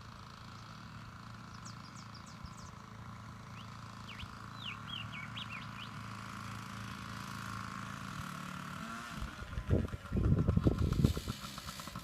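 A child's small motorbike engine running steadily and growing louder as it comes closer, with loud, uneven rumbling from about ten seconds in. Birds chirp a few times between about two and five seconds in.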